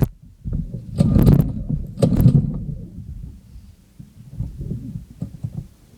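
Baja mini bike's small engine being started, sputtering unevenly: two stronger bursts about a second apart, then fading to scattered low putters as it struggles to keep running.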